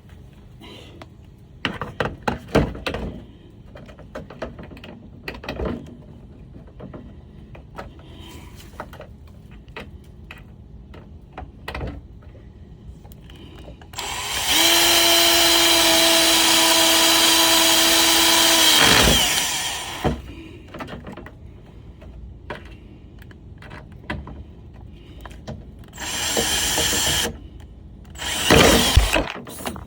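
Power drill driving self-tapping screws through the metal of a van's side step: one steady, loud run of about five seconds about halfway through, then two short bursts near the end. Scattered knocks and handling clatter come before it.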